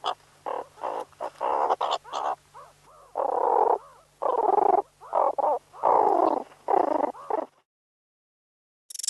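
An animal calling over and over, about fifteen calls, short at first and then longer ones of around half a second each. The calls stop about a second and a half before a different sound starts at the very end.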